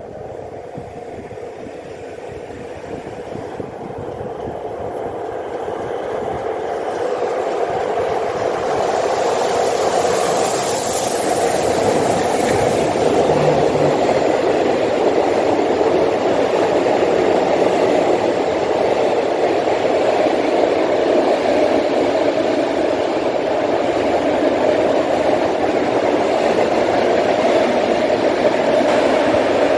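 Steam-hauled heritage passenger train approaching and running past close by. A steady rumble and clatter of wheels on rails builds over the first several seconds, then holds loud and even as the carriages go by.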